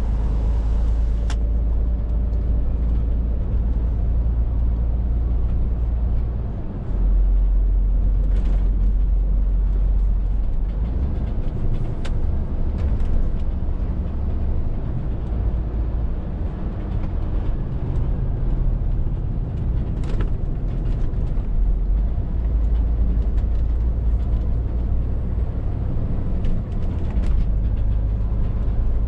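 Scania R450 lorry's 13-litre straight-six diesel running steadily on the move, a deep drone with road noise over it. The drone dips briefly about seven seconds in and the engine note shifts, with a few faint clicks scattered through.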